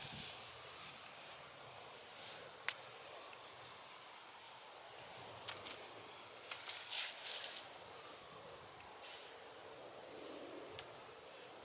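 Gloved hands digging and rustling through loose garden soil for sweet potatoes, with a sharp click a few seconds in and a short burst of scraping and rustling just past the middle. A steady high insect drone runs underneath.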